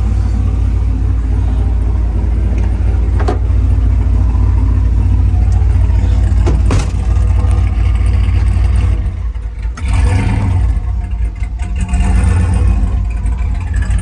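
Turbocharged Silverado's 6.0 V8 running at low speed as the truck is driven in, with a steady low rumble that eases briefly near the end and two short clicks. The owner says it runs as if it has not been tuned at all, now that the new transmission is in and the boost leak is fixed.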